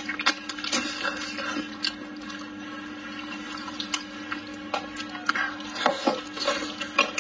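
Close-up wet chewing and lip smacks from a mouthful of braised pork trotter and rice, with sharp moist clicks scattered through and a cluster of louder bites near the end.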